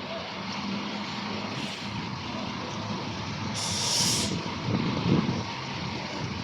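Fire truck engine running steadily, with a short burst of hissing air from its air brakes about three and a half seconds in.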